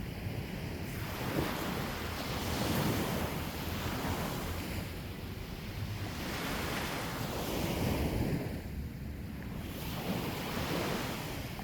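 Sea waves breaking and washing on the shore, a fresh surge swelling and fading about every four seconds, with wind rumbling on the microphone.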